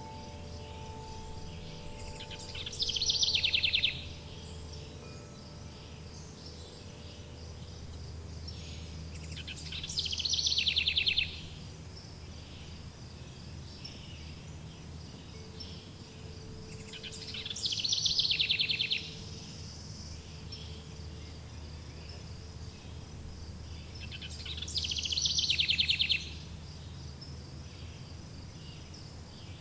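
Forest bird ambience: a bird's fast trilling song phrase repeats four times, about every seven seconds, over a steady high insect-like drone and a low background rumble. A few wind chime tones ring out and fade near the start.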